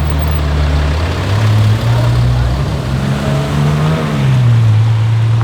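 Hyundai i30 N's 2.0-litre turbocharged four-cylinder engine accelerating, its pitch climbing for a few seconds, then dropping sharply at a gear change near the end.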